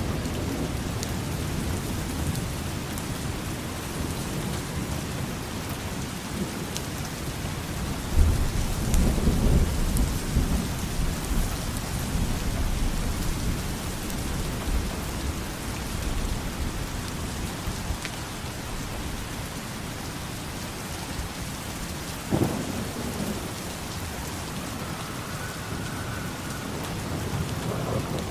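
Steady rain falling, with thunder: a sudden loud clap about eight seconds in that rumbles for a few seconds, and a second sharp crack followed by a low rumble about three quarters of the way through.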